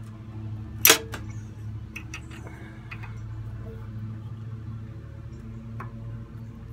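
Hand tools working a seized bolt out of the tractor: one sharp metallic click about a second in and a few lighter clicks, over a steady low hum.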